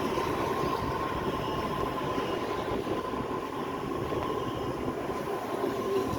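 A train running at steady speed: a continuous rumble with a steady whine, unchanging throughout.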